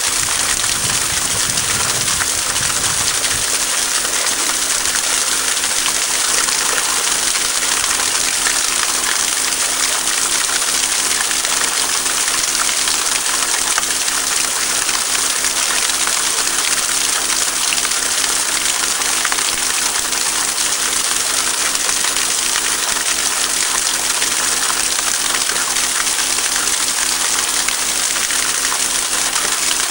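Small stream running over rocks: a steady, loud rush of flowing water.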